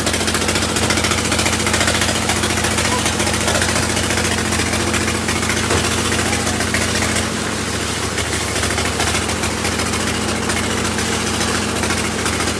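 Engine of a gold-mining machine running steadily and loudly, its note shifting lower about seven seconds in.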